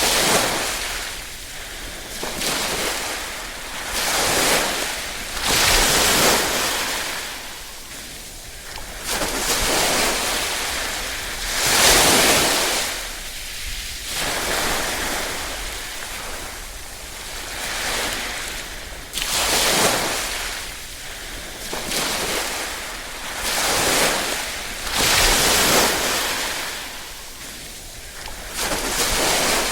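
Small waves lapping and washing ashore, each one swelling and falling away every few seconds, with a light hiss of wind on the microphone.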